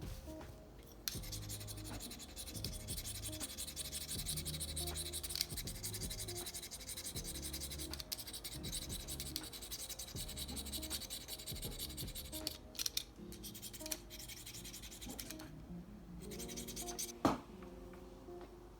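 Rapid scratching and rubbing of a drawing tool on paper, which stops about three seconds before the end, under soft background music. A single sharp tap comes near the end.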